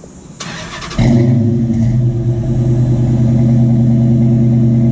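A Hemi V8 is started warm: the starter cranks briefly, the engine catches about a second in with a brief flare and settles into a steady idle without throttle.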